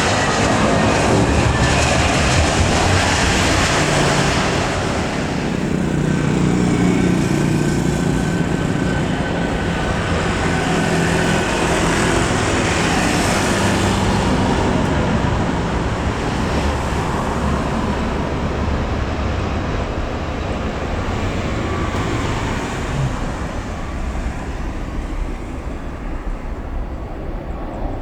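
Jet airliner engines passing close by, a loud rushing noise with a faint whine in it. It is loudest in the first few seconds and fades slowly away.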